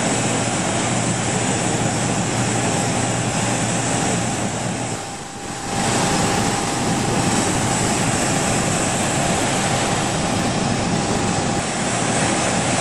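Jet engine noise from the Airbus A380's four turbofans during its flying display: a steady, loud rushing with a thin whine on top, dipping briefly about five seconds in.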